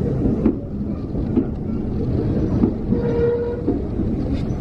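Heritage railway train running: a steady low rumble of wheels and carriages with scattered knocks and clanks, and a brief high squeal about three seconds in.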